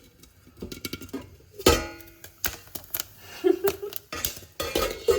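An irregular clatter of sharp clicks and knocks, the loudest about two seconds in.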